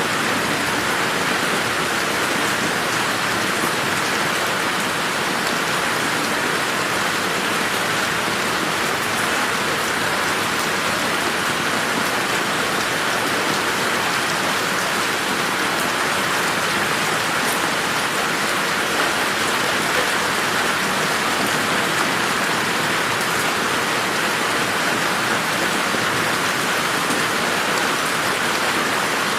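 Steady rain falling in a garden, a dense even hiss of drops with faint scattered patter.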